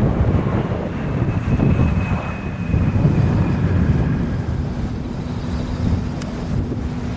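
Jet airliner on its landing approach in a strong gusty crosswind, its engines heard under heavy wind rumble on the microphone. A faint high engine whine comes in about a second in and fades around four seconds, and a steady low hum follows near the end.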